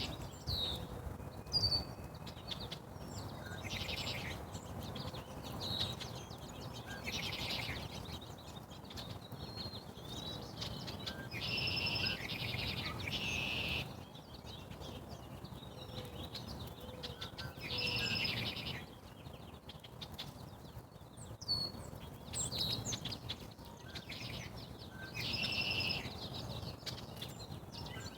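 Songbirds singing and calling: short trilled phrases of about a second, repeated every few seconds, with thin chirps between them, over a faint low rumble.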